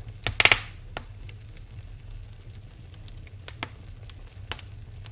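Wood fire in a fireplace crackling, with a loud cluster of pops about half a second in, then scattered single snaps over a steady low hum.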